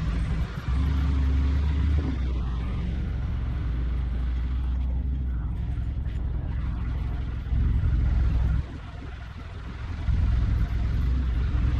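Motor vehicle engine running with a steady low hum that rises and falls in level several times.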